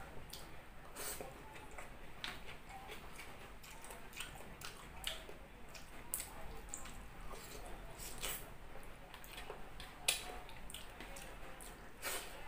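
Wet chewing and lip-smacking of someone eating soft rice and grilled eggplant omelette by hand: a scatter of short, irregular clicks and squishes.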